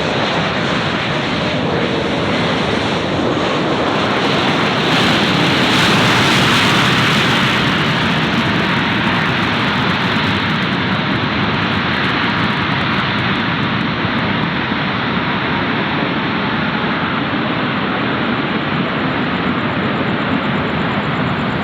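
Jet airliner engines running, a loud steady rush that swells to its loudest about six seconds in and then settles to a steady level.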